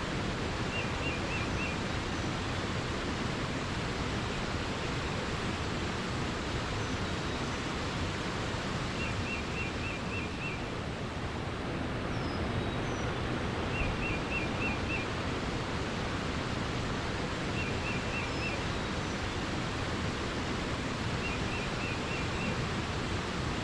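Steady rushing water, like a forest stream or small waterfall. Over it a small bird repeats a short, fast run of four to six high notes about five times, every four seconds or so, with a few faint higher chirps between.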